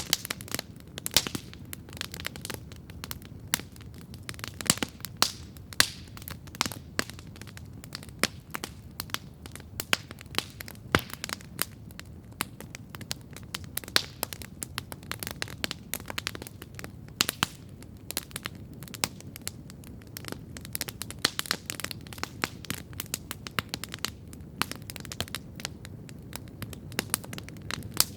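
Wood campfire crackling steadily, with frequent sharp irregular pops and snaps over a low, soft rumble of burning.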